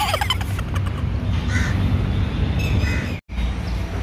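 Birds calling a few times, short calls about a second and a half apart, over a low steady rumble. The sound drops out for an instant about three seconds in.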